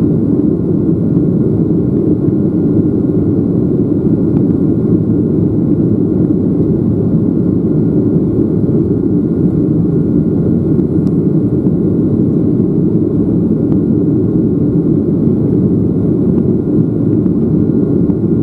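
Boeing 737-800's CFM56-7B jet engines and airflow making a steady, loud rumble, with a faint steady whine above it.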